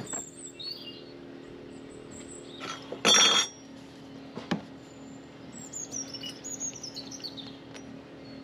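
A bird singing a falling series of short chirps, over a steady low hum. A sharp click comes at the start, and a short, louder clatter about three seconds in.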